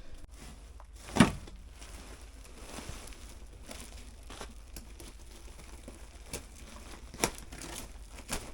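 Flexible insulated duct being twisted and torn apart by hand, its plastic jacket crinkling and tearing, with a few sharp snaps: the loudest about a second in, another near the end.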